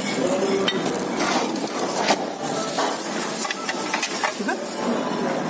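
Food sizzling and frying on a hot cooking surface as it is stirred, with metal utensils clinking and scraping now and then.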